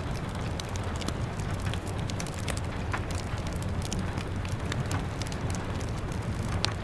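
Wood fire crackling, with irregular sharp pops (one louder near the end), over a steady low rumble and the patter of rain against a window pane.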